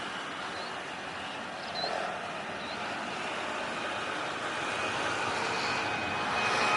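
Jet airliner engines at takeoff power, heard from off the runway and growing steadily louder as the aircraft comes closer. A steady high whine comes in during the last couple of seconds.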